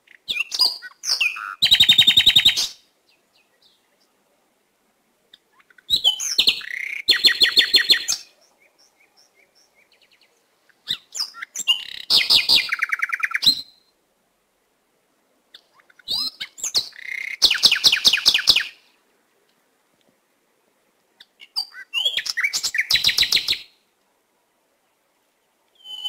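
A bird call repeated five times, about every five seconds: a few short chirps, then a rapid trill lasting about a second.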